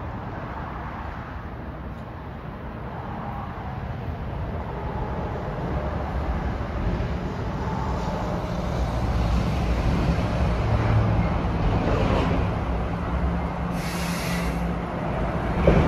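Train rumbling, growing louder over the first ten seconds or so, with steady low engine tones. A short hiss comes about fourteen seconds in, and a sharp knock near the end.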